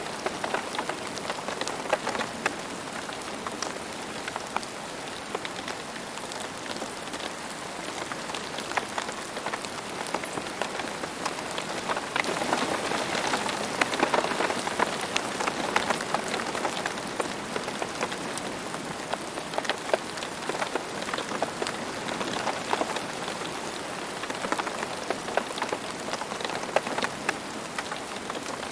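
Steady rain falling on a hard surface, with many single drops pattering distinctly. The rain gets a little heavier about halfway through, then eases again.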